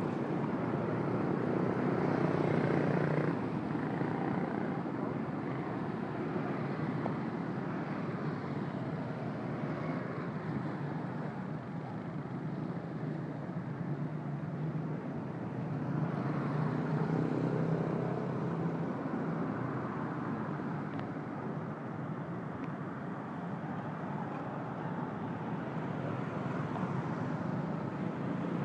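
Road traffic: a steady rumble of vehicle engines and tyres, swelling twice as louder vehicles pass, about two seconds in and again past the middle.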